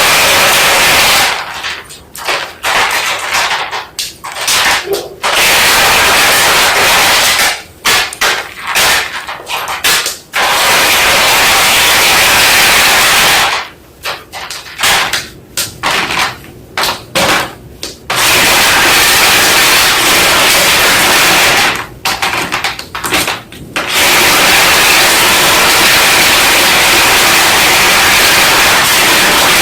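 White school chalk being crunched and crushed: clusters of crisp, crackling snaps with short gaps between them, alternating several times with stretches of loud, steady, hiss-like noise.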